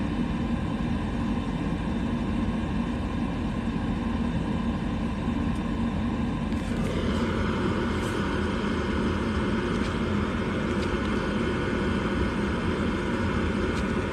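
Steady fan noise from a gas furnace's motors running. About seven seconds in the sound changes character and a thin, high, steady whine comes in.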